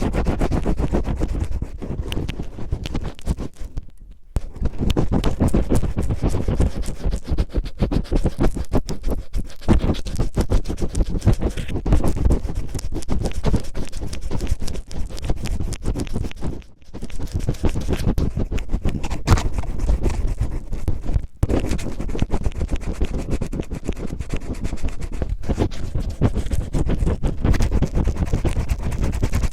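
Cellophane rubbed and crinkled roughly against a microphone, ASMR ear-cleaning style: dense, rapid crackling scratches. There are brief pauses about 4, 17 and 21 seconds in.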